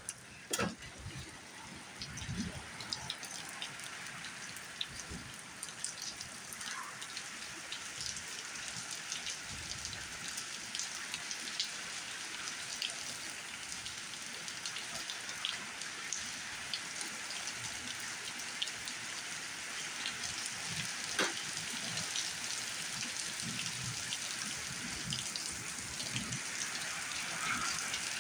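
Rain falling steadily, a dense patter of drops on surfaces that builds slightly, with a few louder single drop hits.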